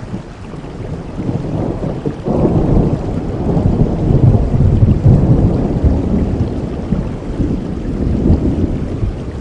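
Steady rainfall with a long roll of thunder that breaks in about two seconds in, swells to its loudest midway and slowly rumbles away.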